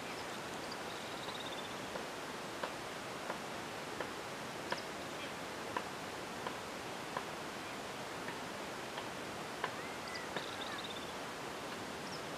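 A steady hiss with a bird's short falling trill twice, about a second in and again near the end, and a curving call near the end. Sharp ticks come every half second to a second throughout.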